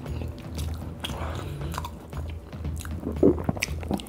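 Close-up biting and chewing of raclette, soft melted cheese with potato and cured meat, with wet mouth clicks and a brief louder mouth sound about three seconds in.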